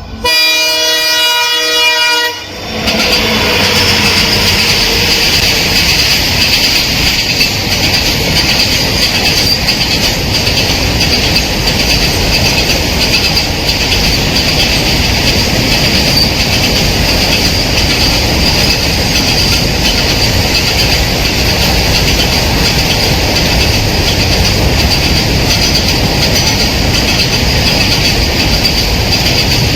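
An Indian Railways express train's locomotive horn blows for about two and a half seconds, then the train runs past at speed with steady, loud rail and wheel noise and a high wheel squeal.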